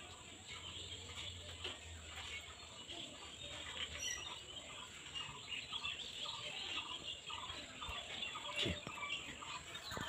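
Faint bird calls: short chirps repeated a few times a second.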